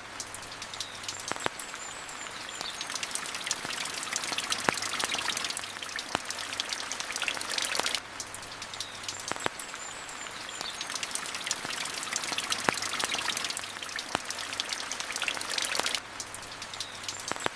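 Steady rain pattering, with scattered sharp ticks and pops through it and a faint high twitter now and then. The same eight-second stretch of recording repeats, each time starting with a sudden small drop in level.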